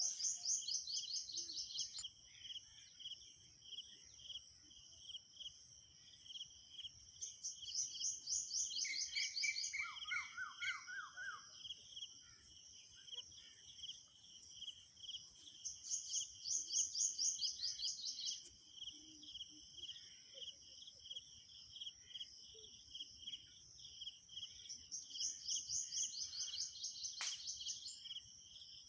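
Quail calling in bursts of rapid, evenly repeated high notes, about every eight to nine seconds. Under them runs a steady, fast, pulsing chirr.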